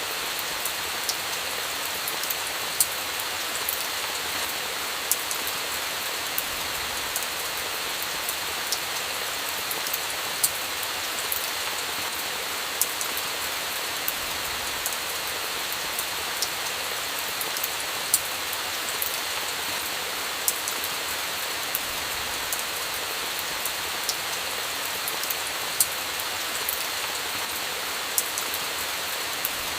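Steady rain falling, with irregular sharp pops of a crackling campfire.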